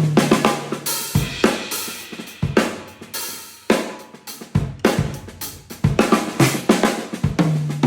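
Yamaha acoustic drum kit played in a fast solo: snare, bass drum and hi-hat strokes with cymbal crashes, and low tom fills ringing at the start and again near the end. Recorded on a phone's built-in microphone.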